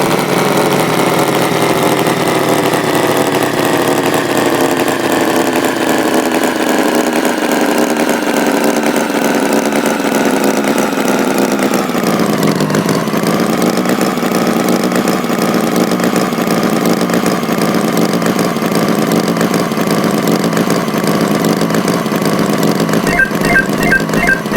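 Engine running steadily, its pitch sinking slowly over the first half with a brief dip about halfway through, then holding level. A rhythmic music beat comes in near the end.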